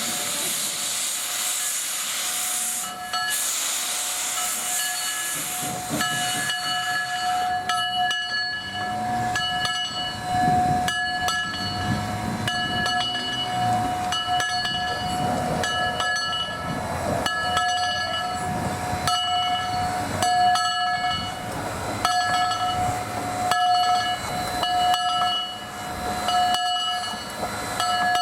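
Ventura County Railway No. 2, a Baldwin 2-6-2 steam locomotive, pulling its train away: a strong steam hiss for the first several seconds, then the train rolling with regular clicks, low exhaust beats and a steady high metallic squeal.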